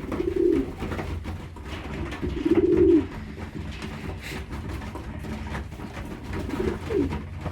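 Racing pigeons cooing: three low coos, the loudest about two and a half seconds in, with faint clicks between them.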